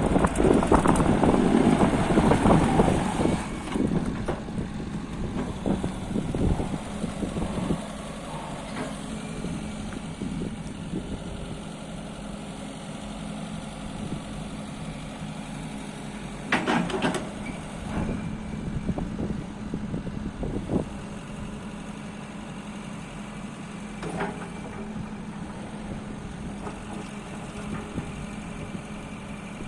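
JCB 100C-1 tracked excavator's diesel engine running steadily, louder for the first few seconds, with a few brief knocks from the machine.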